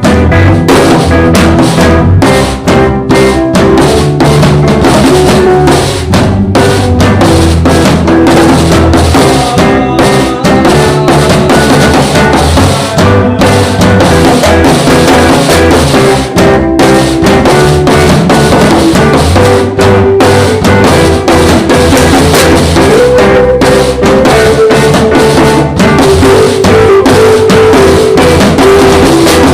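Live jazz jam band playing, a drum kit keeping a steady beat with snare and bass drum under sustained melodic lines. The recording is very loud and poor, near full level throughout.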